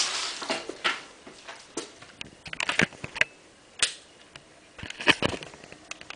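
Irregular clicks and light knocks of a small hand-held object being handled, with a few sharper clicks and a short cluster of them about three seconds in.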